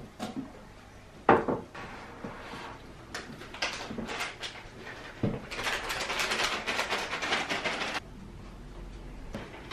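Plastic cat-treat packet being handled: a couple of knocks, then a crinkly rustling of plastic for about two and a half seconds that stops abruptly.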